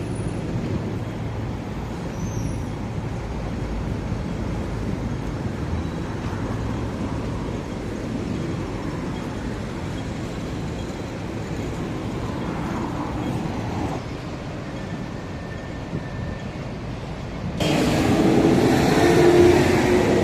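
City street traffic: the steady rumble of passing road vehicles, turning suddenly louder near the end.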